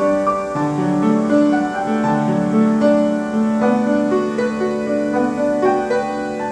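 Piano playing a slow melody over sustained chords, notes held and changing about every half second to second.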